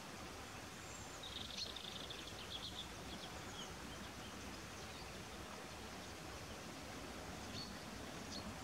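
Faint steady outdoor background hiss with a few small bird chirps, clustered between about one and two seconds in.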